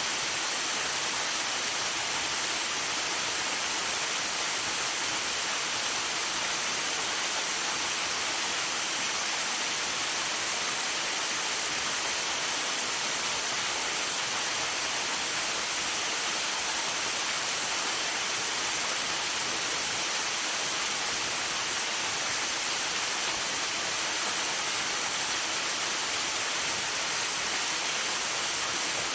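Waterfall pouring steadily, a constant rushing hiss with no change in level.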